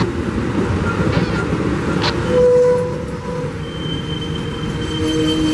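Train rolling past on the rails, a steady noise of wheels on track throughout. A short, loud single tone sounds a little after two seconds in, and thin, steady high squealing tones come in from about halfway on.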